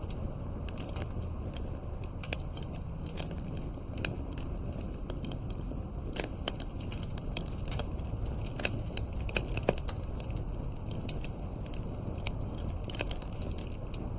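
Campfire burning, with irregular crackles and sharp pops over a steady low rumble of the flames.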